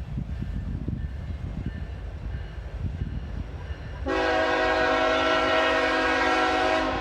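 Norfolk Southern diesel freight locomotive approaching with a low rumble, then sounding its air horn: one long chord that starts sharply about four seconds in and holds for about three seconds.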